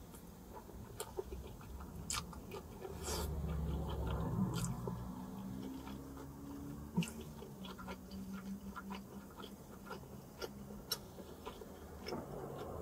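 Close-up chewing and biting of pepperoni pizza, with many small wet mouth clicks. A low rumble swells about three seconds in and fades.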